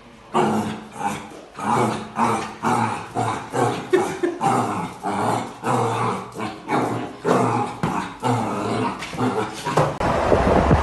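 A dog vocalising in a fast series of short growly calls, about two a second, which stop near the end.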